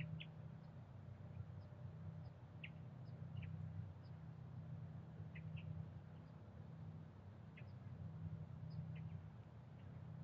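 Faint, short high bird calls, about a dozen, scattered over a steady low rumble.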